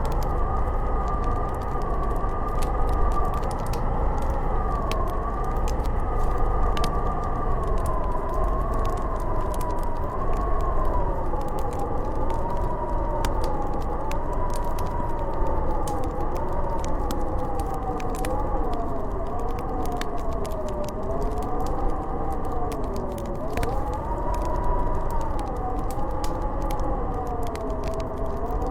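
Howling blizzard wind, a whistling tone that wavers up and down over a low rumble, with a fireplace crackling in scattered sharp pops.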